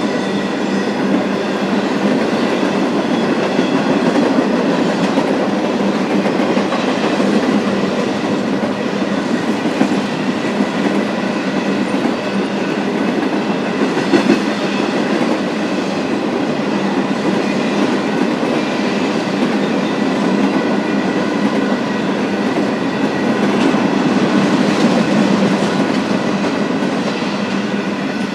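BNSF freight train's cars rolling steadily past: a continuous rumble and clatter of wheels on rail, with faint high steady tones above it.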